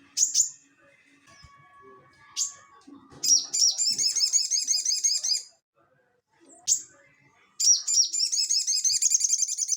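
A sogon (sogok ontong) songbird singing: single sharp high calls, plus two long rapid runs of quickly repeated high notes, each lasting about two seconds.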